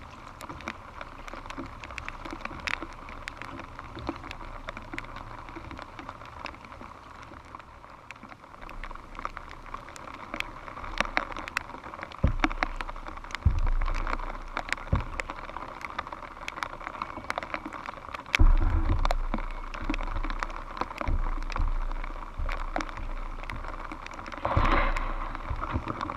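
Rain pattering on a kayak and a GoPro camera housing in many scattered sharp ticks. From about halfway through, gusts of wind buffet the microphone in repeated low rumbles.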